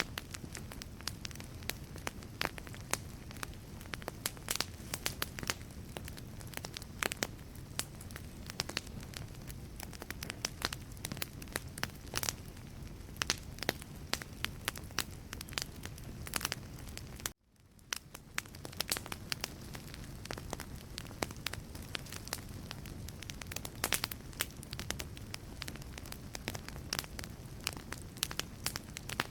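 Wood fire burning in a fireplace, crackling with frequent sharp pops and snaps over a low steady rumble of flames. About seventeen seconds in, the sound cuts out for an instant and fades back in.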